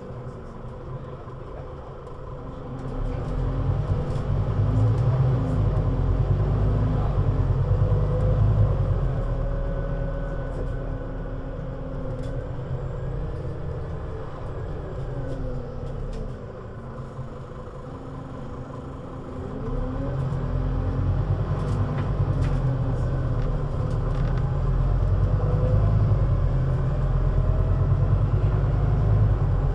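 Scania CN320UA articulated city bus's diesel engine pulling under load. The pitch rises and steps down at gear changes. The engine eases off in the middle and then builds up again from about two-thirds of the way in.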